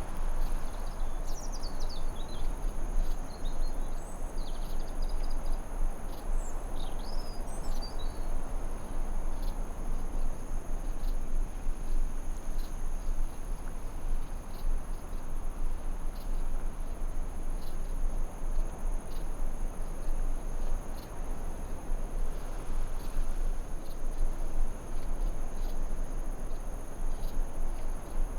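Forest ambience: a steady high-pitched drone of crickets or other insects over an even background hiss, with birds chirping in quick glides during the first several seconds.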